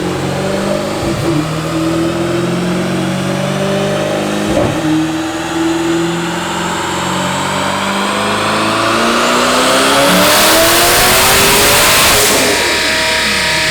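Twin-turbocharged C8 Corvette's 6.2-litre V8 making a full-throttle dyno pull, its revs climbing steadily for about twelve seconds, with brief breaks about a second in and about four and a half seconds in. It is loudest near the top of the pull, then the throttle closes and the revs fall away.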